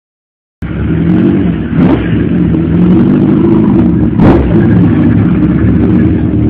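Car engine revving, its pitch rising and falling, starting abruptly just after the start, with two sharp bangs, the louder about four seconds in.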